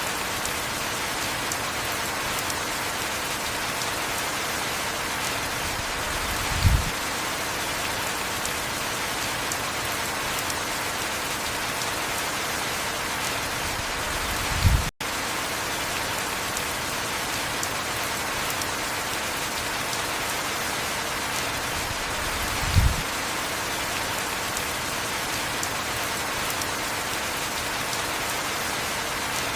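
Heavy rain falling in a steady, even hiss. A short low thump comes about every eight seconds, three times. The sound cuts out for an instant about halfway through.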